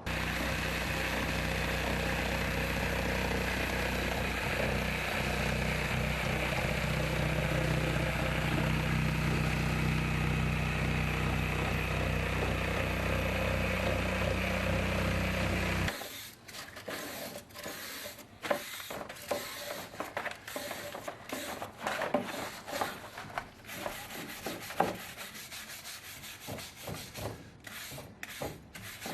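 An electric motor running steadily, which stops suddenly about halfway through. After it comes a series of irregular scraping and rubbing strokes, like hand work on a concrete surface.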